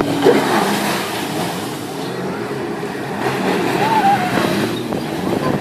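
Jet ski engine running, with the rush of water alongside.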